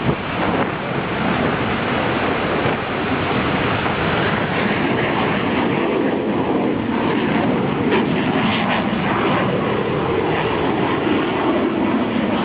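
Hongdu L-15 advanced jet trainer's twin turbofans in flight: a loud, steady jet roar whose tone slowly shifts.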